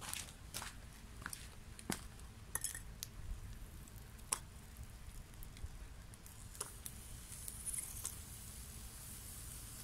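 Wood fire in a Swedish torch log crackling, with scattered sharp pops and a faint high hiss that grows in the second half.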